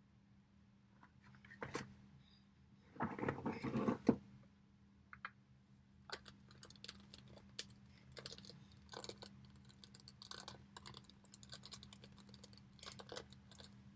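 Vintage evening bags being handled close to the microphone: a click, then a short burst of rustling about three seconds in, followed by a steady run of light clicks and taps.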